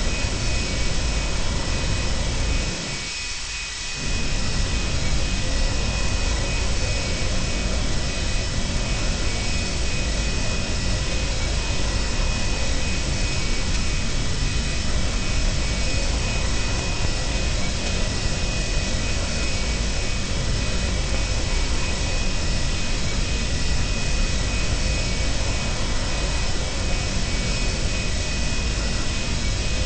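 Boeing 737-200's Pratt & Whitney JT8D turbofan engines running steadily, heard from inside the cabin as a loud rush with a high, steady whine. The sound dips briefly about three seconds in, then carries on as before.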